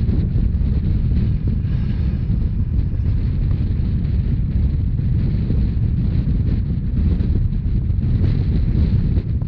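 Steady low rumble of a narrow-gauge train running at speed, with wind buffeting the microphone.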